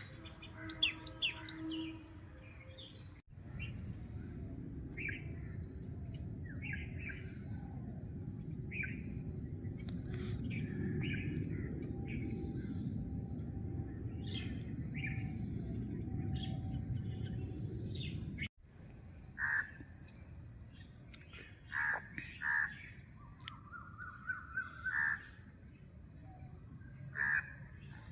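Birds chirping and calling in short scattered notes over a steady high insect drone. A low rushing noise, like wind on the microphone, fills the middle stretch. The sound breaks off abruptly twice where the footage is cut.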